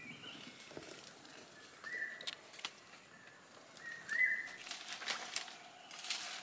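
A bird repeating a short whistled call about every two seconds, with a few rustles and clicks in the second half.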